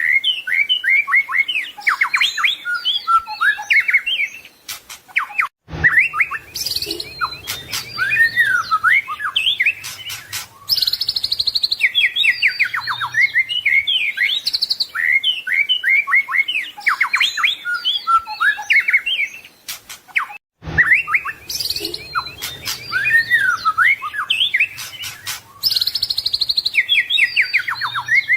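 White-rumped shama singing a fast, varied song of whistles, trills and buzzy rattles, full of borrowed phrases. It cuts off abruptly for a moment twice, about fifteen seconds apart, and the song runs on as a repeating loop.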